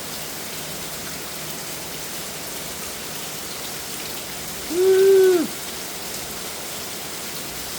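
Heavy rain pouring down steadily on the ground and patio. A man gives one short 'Woo!' about five seconds in.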